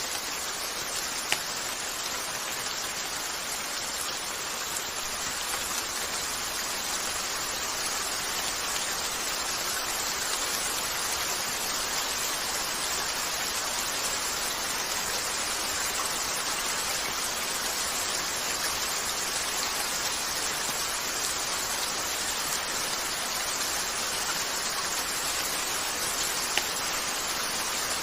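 Steady rain falling on a window, with a couple of sharp pops from a crackling wood fire.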